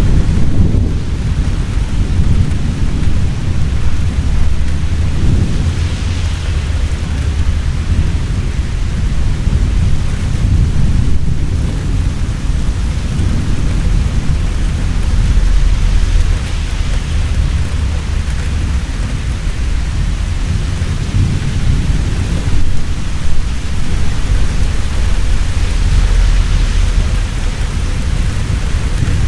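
Heavy rain falling steadily, with deep rolling thunder rumbling underneath and swelling and fading several times.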